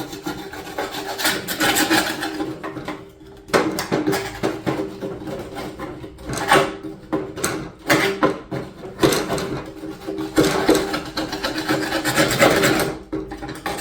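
Rough scraping and rasping strokes on the rusty sheet-metal fender, coming in irregular bursts about once a second, as dirt and rust are worked out of the panel.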